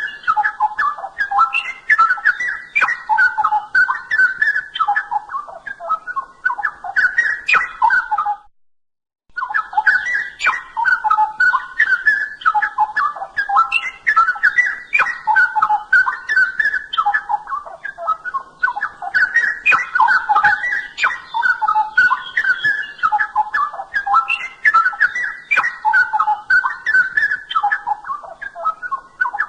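Straw-headed bulbul (cucak rowo) in full song: a fast, unbroken stream of rich whistled and warbled notes. The stream stops for about a second roughly eight seconds in, then carries on.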